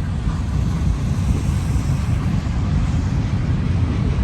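Steady low rumble of a slow CSX freight train's tank cars rolling past, with wind buffeting the microphone.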